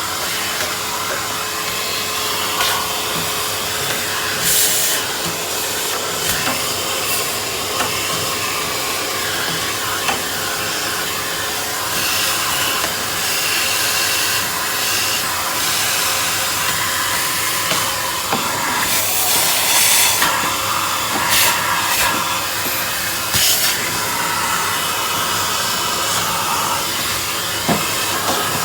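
Vacuum cleaner running steadily, sucking dust from around a refrigerator's compressor and condenser coil. The hiss of rushing air briefly gets louder now and then.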